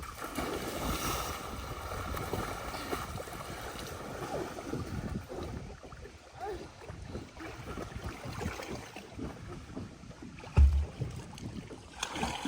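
Outdoor wind rumbling on the microphone by the water, with a steady hum in the first few seconds. One heavy thump comes near the end.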